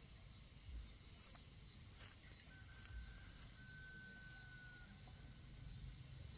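Near silence: faint outdoor ambience with a steady high hiss, a few faint clicks, and one thin, steady whistled note lasting about two seconds in the middle.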